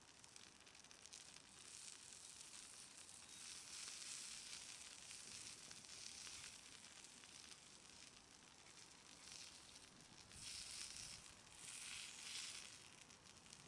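Faint sizzling hiss from food cooking on a small iron griddle over a wood fire, swelling in the middle and surging twice near the end.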